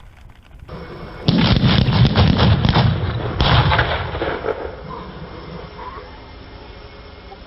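Fireworks going off in a rapid string of bangs and crackles, starting about a second in, surging again about halfway through, then dying away to a low rumble.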